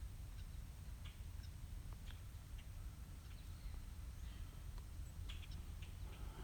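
Faint, short, scattered bird calls over a low steady wind rumble.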